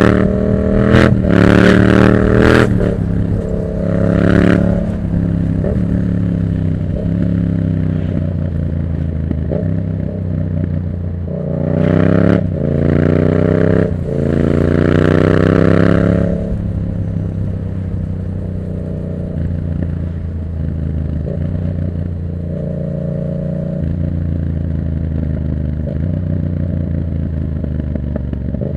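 Yamaha MT-07's parallel-twin engine through an open Black Widow exhaust with no dB killer, accelerating hard up through the gears. The note rises and drops at each shift in the first few seconds and again from about twelve to sixteen seconds in, and runs steady and lower between and after.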